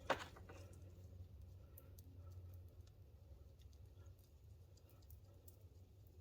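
Quiet hand work on brake parts: one sharp click just after the start, then faint scattered ticks and small clicks over a low steady hum.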